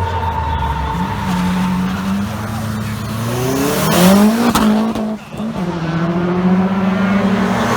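Tuned car engine revving and accelerating away, its pitch climbing sharply about three seconds in, dropping for a moment near five seconds as it shifts gear, then holding a steadier note.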